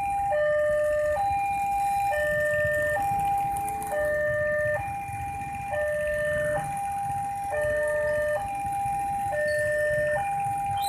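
Electronic railway level-crossing alarm sounding its two-tone warning: a higher and a lower tone alternate steadily, each held a little under a second, signalling an approaching train. A low rumble runs underneath.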